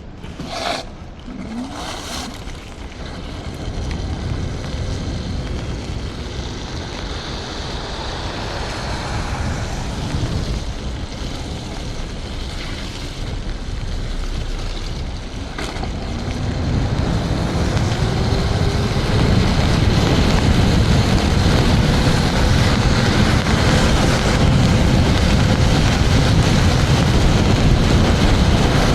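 Wind rushing over the helmet microphone and tyre noise of a TRBK-M2 electric scooter riding on wet pavement, with a few clicks near the start. About halfway through the scooter speeds up: the rush grows louder and a faint motor whine rises in pitch, then holds steady.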